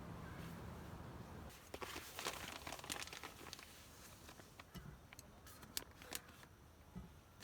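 Rustling and crinkling of something being handled, densest a couple of seconds in, followed by scattered sharp light clicks.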